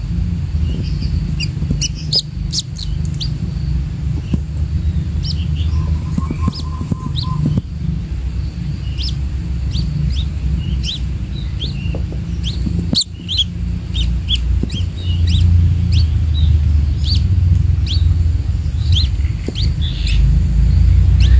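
Short, high bird chirps repeating irregularly over a steady low rumble, which grows louder in the last few seconds.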